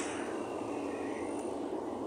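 Steady rumble and hiss of a double-deck electric regional train standing at the platform, with no distinct events.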